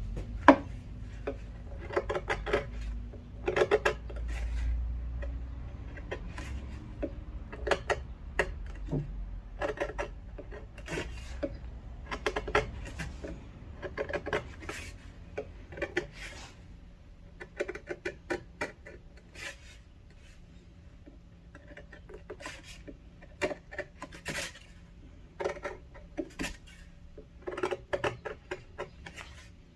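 Flat carving chisel paring and scraping the bark of Japanese zelkova wood: irregular short strokes, some in quick clusters, with sharp clicks as chips break away and brief pauses between.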